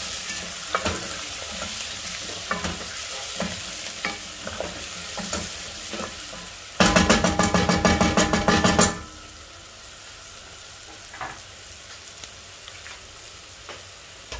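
Potatoes, red onions and spices sizzling in a frying pan as they are stirred with a wooden spoon, with scattered scraping clicks. About seven seconds in, a loud rapid rattle of about seven strikes a second lasts some two seconds; after it the sizzling goes on quieter with only occasional clicks.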